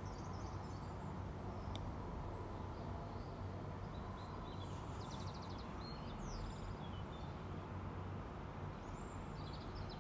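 Birds chirping in short bursts over a steady low background hum, with a single sharp click about two seconds in.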